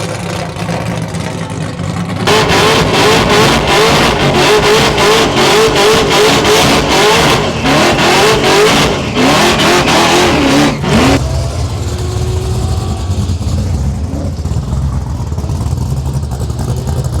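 Muscle car engine rumbling low, then revved hard for about nine seconds with its pitch swinging up and down about twice a second, before dropping back to a low rumble.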